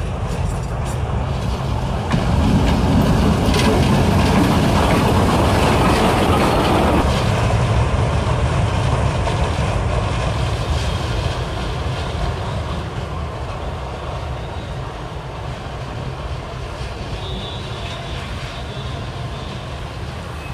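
A train running along the track, a steady low rumble that grows louder about two seconds in, stays loudest for several seconds, then slowly fades away.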